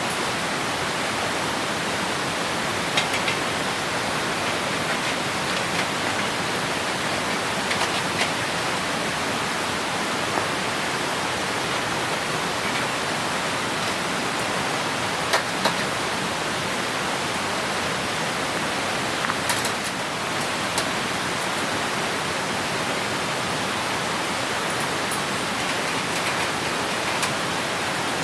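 Clear stream rushing steadily, a continuous hiss of running water, with a few short sharp clicks now and then.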